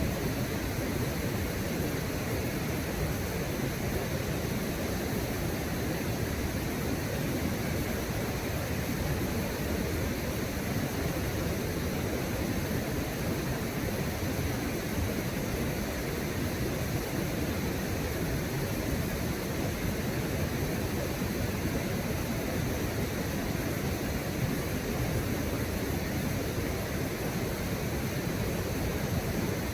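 Steady, unbroken rush of water from a river and waterfall.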